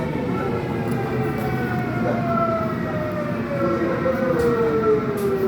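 Subway train braking into a station: the traction motors' electronic whine, several tones together, falls steadily in pitch as the train slows, over the rumble of the wheels on the track.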